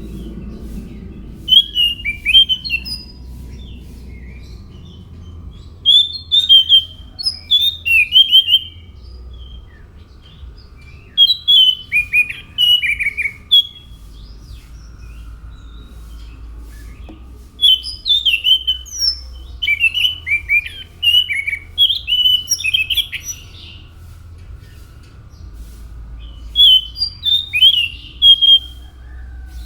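Anis macan thrush singing: five phrases of quick, sharp chirping notes, each lasting one to a few seconds, separated by pauses. A low steady hum runs beneath.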